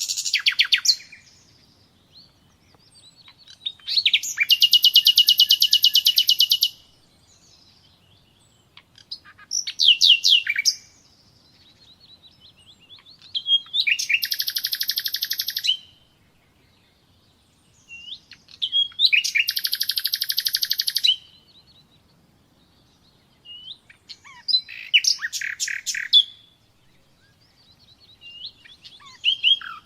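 A nightingale singing: about six separate phrases, each a fast run of repeated notes lasting one to three seconds, with short pauses between them.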